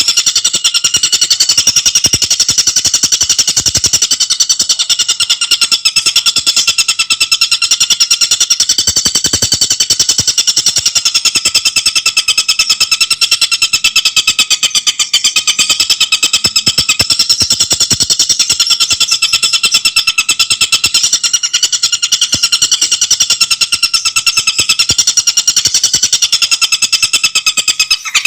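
Tengkek buto bird chattering in a fast, unbroken rattle of rapid ticks, its high, bright tone wavering slightly in pitch.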